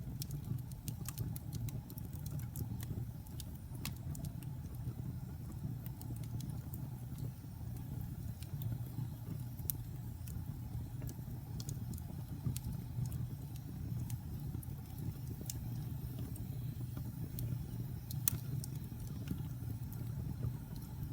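Wood fire burning in a fireplace: a steady low rush from the flames with irregular sharp crackles and pops from the burning wood, one louder pop late on.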